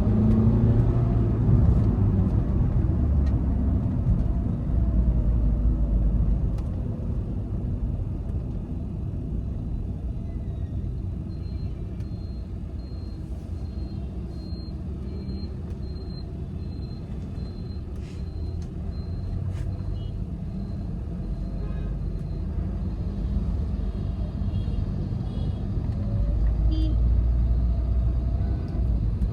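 Volkswagen Vento 1.5 TDI diesel car driving, a steady engine and road rumble. It eases off over the first few seconds and builds again near the end.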